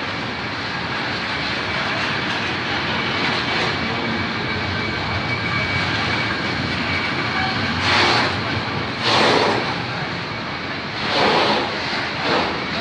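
Electric freight train passing, its wagons running by with a steady rush of wheel and rail noise and a faint whine. Several louder surges come in the second half.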